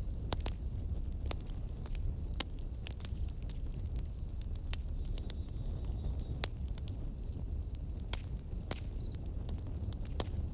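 Wood fire in a fireplace crackling, with sharp pops at irregular intervals over a steady low rumble. A faint steady high hiss runs underneath.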